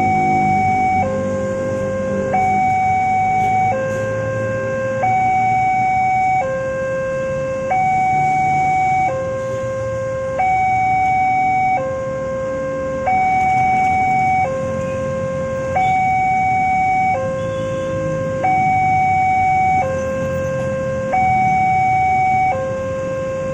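Railway level-crossing warning alarm sounding a two-tone hi-lo signal, switching between a lower and a higher tone about every second and a half without a break: the signal that a train is approaching and the barriers are down.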